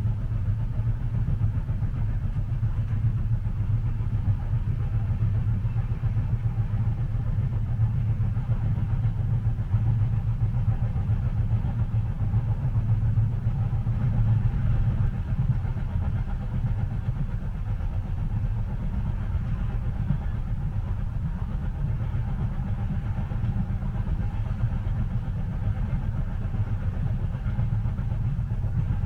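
Steady low rumble of a train heard from inside the carriage, running evenly with no distinct wheel clicks.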